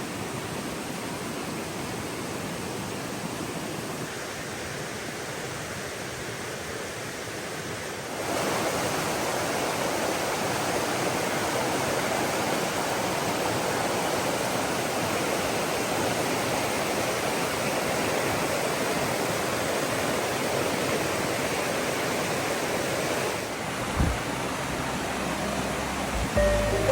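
River water flowing, a steady rush of water that becomes louder about eight seconds in and shifts again near the end, with a few low thumps.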